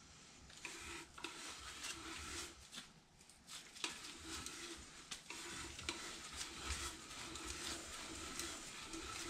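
Faint, irregular scraping and rubbing with light clicks and short squeaks from hands working the parts of a new brass toilet flush valve.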